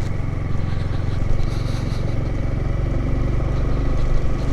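Motorcycle engine running at a steady pace while being ridden, a continuous low hum.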